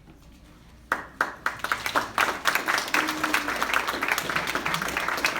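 Audience applauding. It begins about a second in with a few scattered claps and quickly swells into steady clapping.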